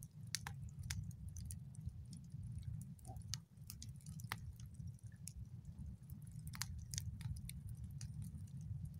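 Campfire of dry deadwood crackling, with irregular sharp pops and snaps over a steady low rumble.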